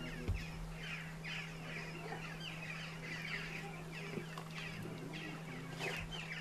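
Birds calling over and over, a run of short falling calls about two a second, over a steady low hum.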